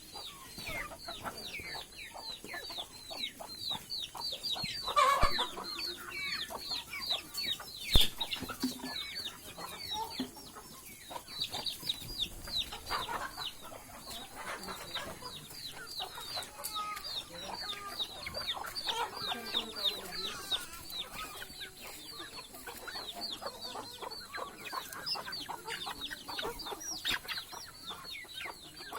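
A flock of country (desi) chickens calling continuously: many short, high, falling calls with clucking, and a louder call about five seconds in. A sharp knock sounds about eight seconds in.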